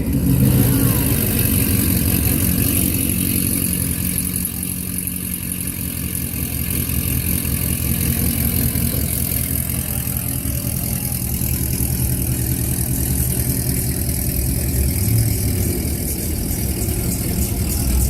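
Car engine idling steadily, a low even exhaust note.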